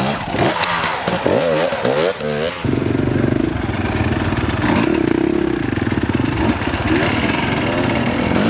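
Dirt bike engine revving up and down in short blips, then running steadily from about three seconds in.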